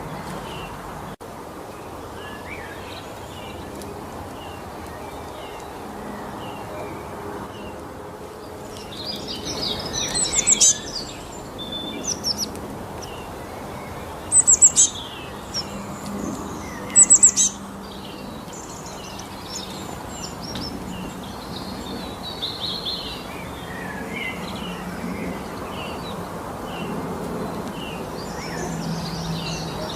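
Several birds chirping and singing over steady background noise. Loud, high, rapid trilled phrases come about ten, fourteen and seventeen seconds in.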